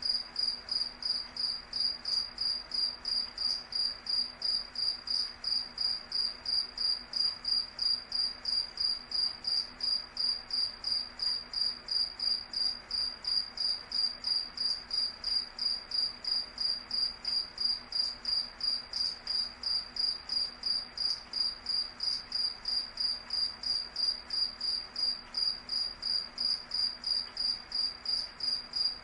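A cricket chirping steadily: a high, clear chirp repeated evenly, about two to three times a second.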